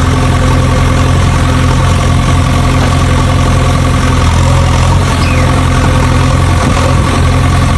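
Tractor engine idling steadily, a loud even engine note with no revving.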